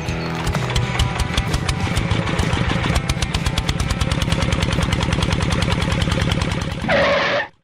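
Small engine running steadily with a fast, even putter, typical of a mini tractor's motor. A brief louder burst comes near the end, and then the sound cuts off abruptly.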